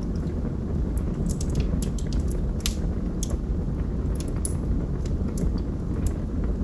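Wood fire burning in a fireplace: a steady low rumble of flames under frequent, irregular sharp crackles and pops from the burning logs.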